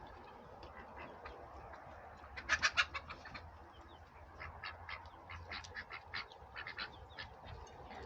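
Domestic ducks quacking in short calls: a loud burst of several quacks about two and a half seconds in, then a quicker string of quacks through the second half.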